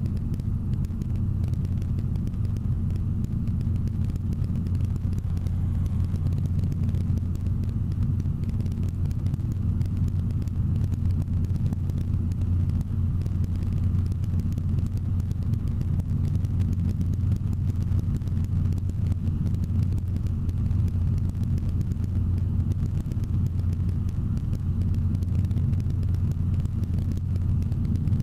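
Robinson R22 Beta helicopter in flight: a steady low drone of engine and rotor, unchanging throughout.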